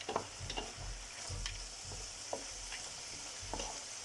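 Mussels and langoustines sizzling in hot oil in the paella pan, a steady frying hiss with scattered small pops and taps.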